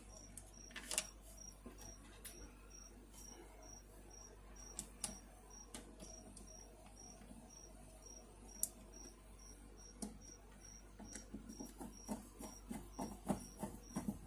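A cricket chirping steadily, about three short high chirps a second. Scattered sharp clicks and light knocks from handling small parts come through it, growing busier near the end.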